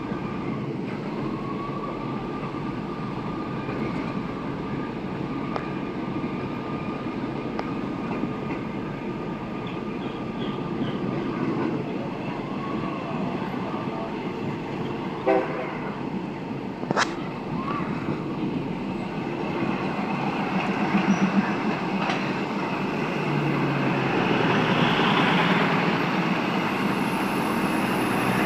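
Passenger train running along the track, with a steady high whine through roughly the first half, a sharp knock near the middle, and the running noise growing louder toward the end.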